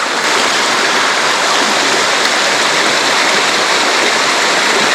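Mountain stream water rushing steadily over rocks, a constant loud hiss of flowing water.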